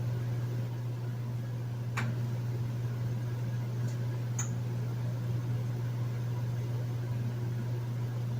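Hotel room air conditioner running steadily: a constant low hum over an even airflow hiss. A couple of faint, short clicks sound about two and four seconds in.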